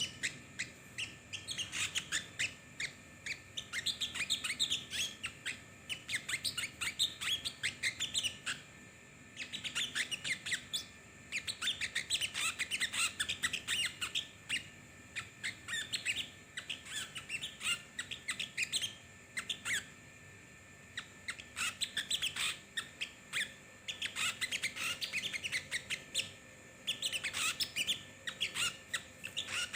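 A small songbird, a sogon, singing in full voice: long runs of rapid, high chirps and twitters broken by short pauses.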